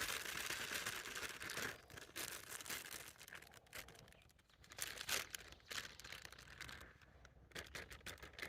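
Faint crinkling and tearing of a yellow cake mix package being opened: a steady rustle for the first two seconds or so, then scattered small crinkles and clicks.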